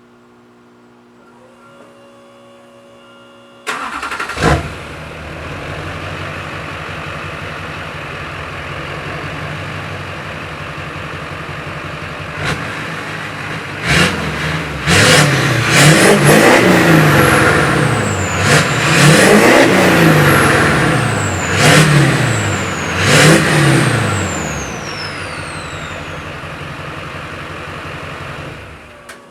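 Straight-piped 2005 Duramax 6.6-litre V8 turbodiesel starting about four seconds in and settling into an idle. From about halfway it is revved several times, and a high turbo whistle glides down in pitch after the revs. The engine shuts off near the end.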